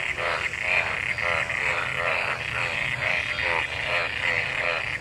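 A chorus of frogs croaking in rapid overlapping calls, about three a second, over a continuous higher-pitched buzz. These are the breeding calls of frogs gathered in rainwater after monsoon rain.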